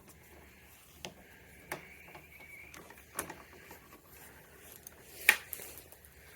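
A few sharp metallic clicks and taps of a wrench working the small jam nut under a scooter's brake lever mount, four in all, the loudest about five seconds in.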